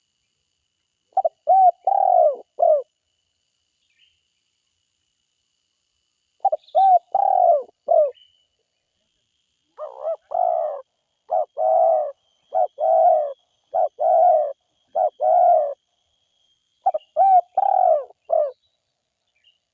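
Spotted dove (tekukur) cooing: four phrases of short, rhythmic coos, the third a longer run of repeated notes, with pauses between phrases. A faint steady high tone runs underneath.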